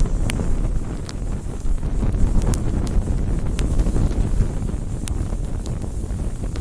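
Wood campfire burning: a steady low rumble of flames, with scattered sharp crackles and pops roughly once a second.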